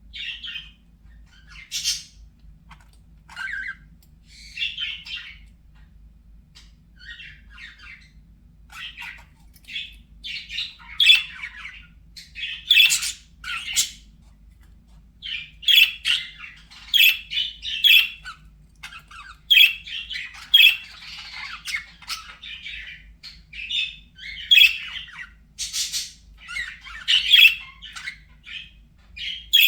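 Budgerigars chattering: a run of short chirps, squawks and warbles, sparse at first and busier and louder from about ten seconds in.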